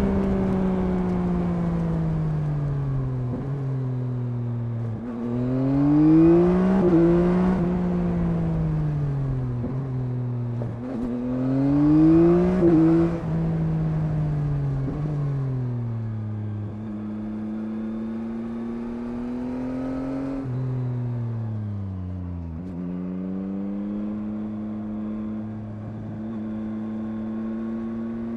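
2021 Yamaha MT-09's 890 cc CP3 inline-three engine heard from the rider's seat. The revs climb steeply twice, about five and eleven seconds in, the loudest moments, and fall back after each. From about sixteen seconds it runs at a steadier, lower pitch, dipping briefly a little past twenty seconds.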